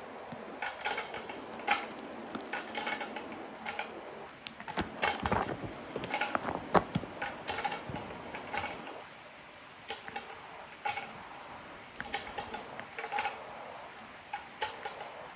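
Irregular metallic clicks and clinks of hand-worked tools or rigging, with a denser run of louder knocks between about five and eight seconds in.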